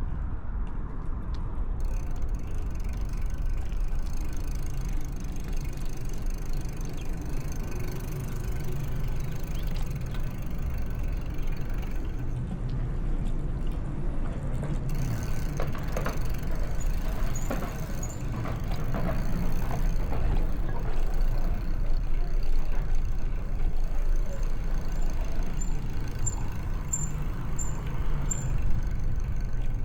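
Steady street-traffic rumble heard from a moving bicycle, with a low rumble of wind on the microphone throughout. A few faint, short high chirps come near the middle and again near the end.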